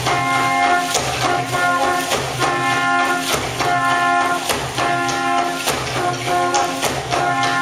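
Brass-led ensemble music playing held chords in short repeated phrases, with sharp percussion hits running through it.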